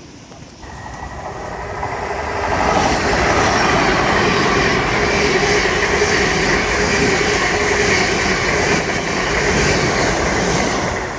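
A train passing close by on the line. It builds up over the first couple of seconds, then runs loud and steady with a rushing rumble and a steady tone, easing off near the end.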